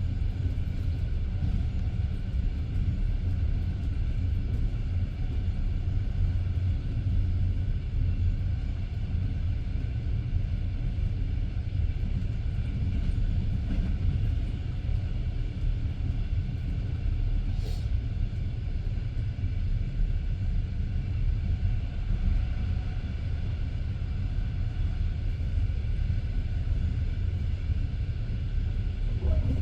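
Passenger train carriage running along the track: a steady low rumble of the wheels on the rails. About 18 seconds in there is one brief high-pitched sound.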